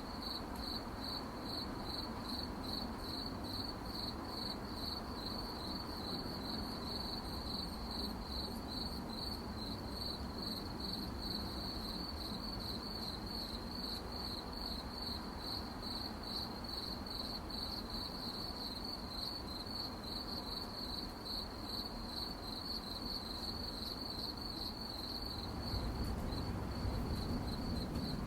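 Crickets chirping in a steady, even rhythm of pulsed chirps. A low rumble swells underneath near the end.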